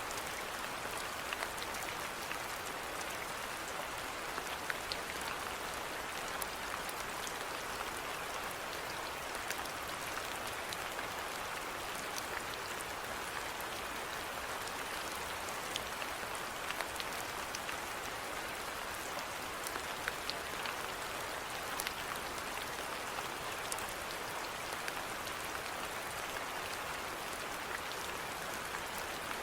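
Steady rainfall, an even hiss with scattered individual raindrop ticks.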